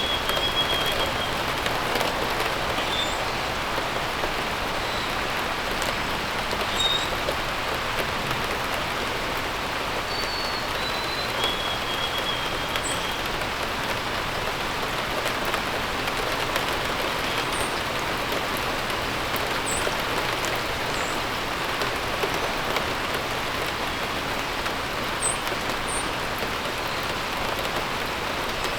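Steady rain falling, with short bird chirps over it now and then: a few near the start and around twelve seconds in, and brief high chirps later on.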